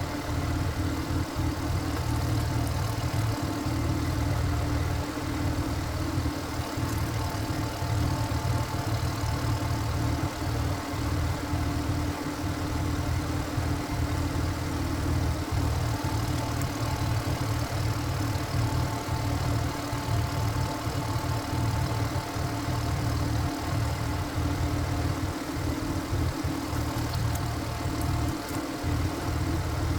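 Power tiller's single-cylinder diesel engine running steadily at an even speed.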